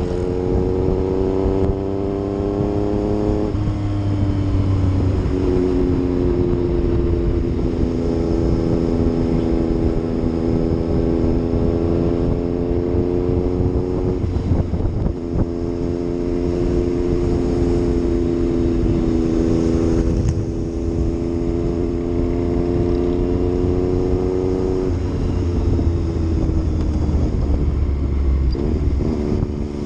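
Yamaha MT-09's inline three-cylinder engine under way on the road, its pitch climbing slowly under throttle. The pitch drops sharply about three seconds in, then climbs gently again, and falls away over the last few seconds as the bike slows.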